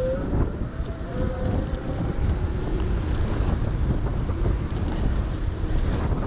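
Wind buffeting a handlebar or helmet camera's microphone while riding an electric bike, a steady low rumble. A faint rising whine comes through in the first couple of seconds.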